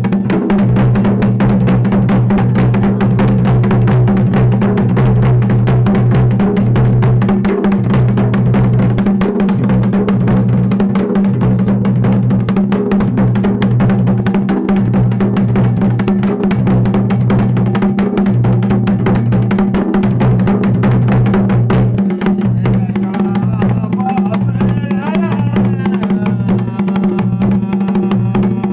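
Dhol and damau drums playing a Mandan beat together: a dense, steady run of strokes with deep, booming low tones.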